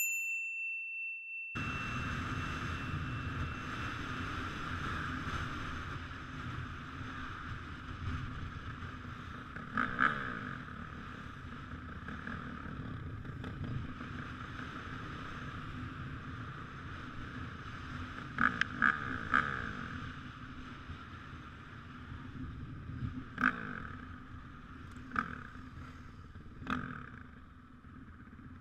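A brief electronic ding, then a Honda CRF450R's single-cylinder four-stroke engine running under a steady rushing noise as the bike is ridden. A few short, sharp knocks come along the way.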